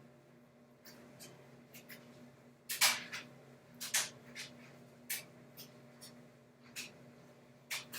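Irregular short scratchy rustles of fingers or a pick working through coily hair close to the microphone, loudest about three and four seconds in, over a faint steady hum.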